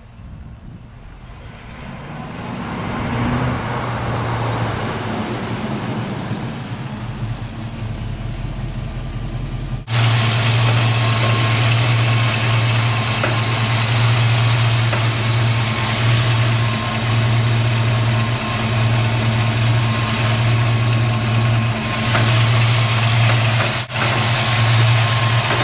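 1960s Chevy pickup's small-block V8 running at a steady idle, quieter at first, then much louder after an abrupt jump about ten seconds in.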